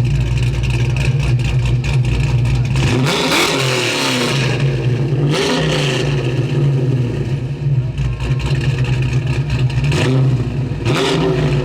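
A car engine running at a steady idle, revved up and back down about three seconds in, again around five and a half seconds, and briefly near the end.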